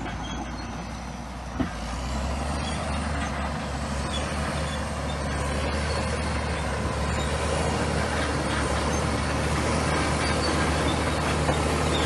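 Komatsu bulldozer's diesel engine running under load with a steady low drone that grows a little louder, and a single short knock about a second and a half in.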